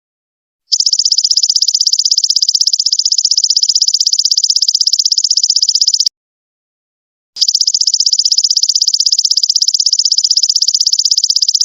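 Golden locust (belalang emas) insect calling: a loud, high-pitched buzzing trill of very rapid pulses, in two long phrases of about five seconds each with a pause of just over a second between them.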